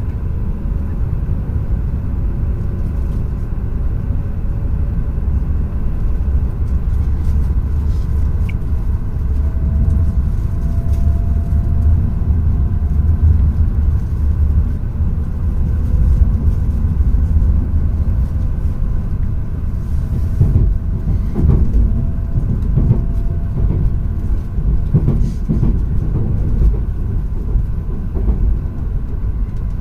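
Tohoku Shinkansen train running at speed, heard from inside the passenger car: a steady low rumble, with a run of short knocks in the second half.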